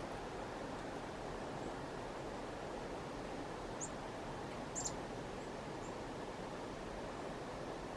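Steady outdoor background hiss, with a few very short, high bird chirps about four and five seconds in.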